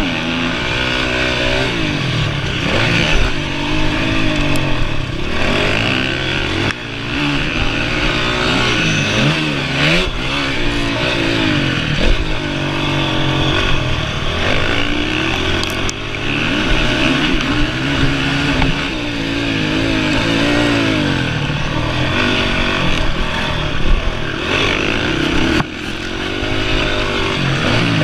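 Honda CRF 450R motocross bike's single-cylinder four-stroke engine under hard riding, its pitch climbing and dropping again and again as the throttle is opened and shut and gears change. There are short drops in level about a quarter of the way in and near the end.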